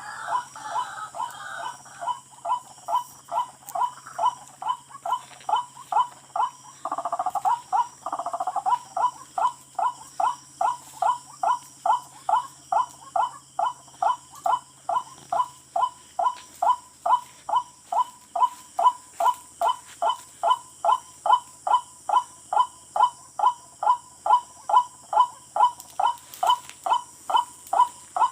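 A tikling (rail) call repeated steadily, about two a second, in an even, unbroken series. Two short, louder rushing noises come about seven and eight seconds in, and there is a faint steady high insect drone underneath.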